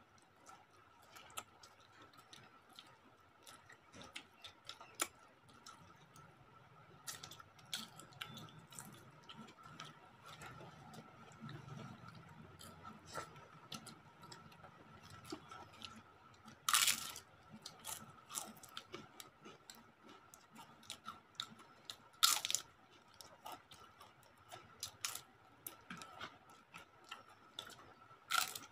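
Eating sounds at close range: chewing and crunching of crisp papad and fried potato slices, with small clicks of fingers working rice on the plates. Three louder crunches come in the second half, over a faint steady high tone.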